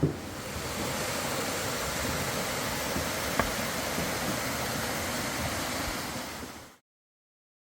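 Steady rushing noise, even across low and high pitches, that cuts off abruptly near the end.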